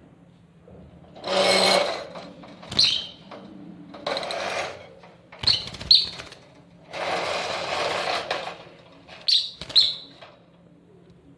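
Caged birds calling: several short, sharp chirps between three longer harsh screeches.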